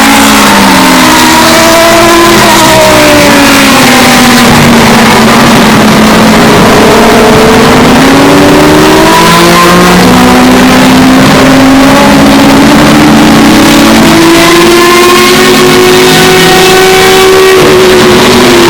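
Historic Group C race car engines running hard on track, several at once, loud throughout. Their pitch slides down over the first few seconds and then climbs steadily again as the cars pass and accelerate away.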